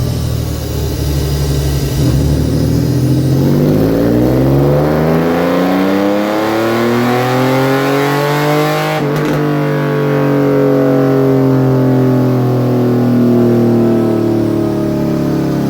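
Engine breathing through a full aftermarket exhaust system, pulled on a dynamometer: it climbs steadily in revs for about seven seconds, cuts off sharply near the middle, then winds down slowly as the rollers coast.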